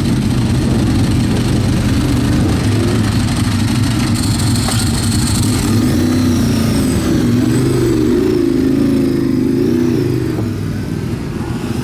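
Motorcycle engine running at a fairly steady speed, its pitch wavering slightly and rising and falling a little past the middle.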